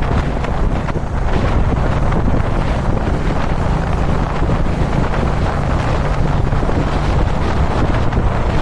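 Wind buffeting the microphone with a Kawasaki Dominar 400 motorcycle's single-cylinder engine running steadily underneath, at cruising speed.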